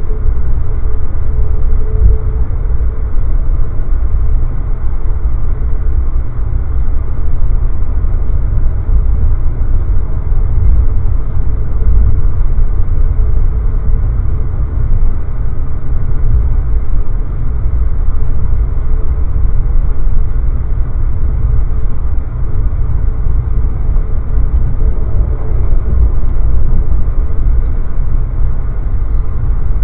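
Steady deep rumble of an Amtrak passenger train moving at speed, heard from inside the coach: wheels running on the rails with the car's running noise.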